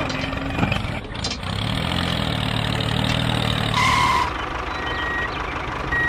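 Tractor engine running with a steady low hum for a couple of seconds, then a reversing beeper sounds a few beeps as the tractor backs up.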